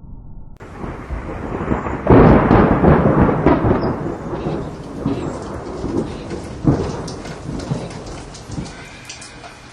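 Thunder from a lightning strike: a rumble builds, breaks into a loud crack about two seconds in, then rolls on with another sharp clap later. It dies away into steady rain.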